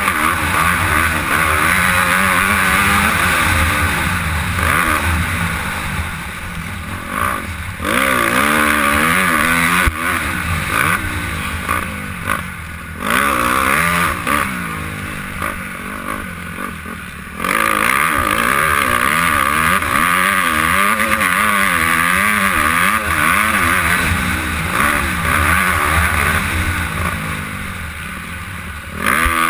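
Honda CRF250R's single-cylinder four-stroke engine racing, its pitch rising and falling over and over as the throttle and gears are worked, with the note dropping away briefly several times when the throttle is shut. Heard from a helmet-mounted camera.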